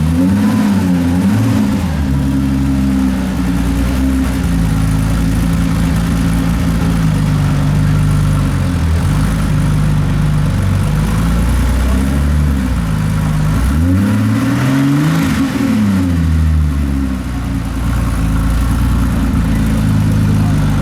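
A sports car engine idling with a steady low note, revved at standstill: its pitch rises and falls right at the start and again about fifteen seconds in, with a shorter blip near the end.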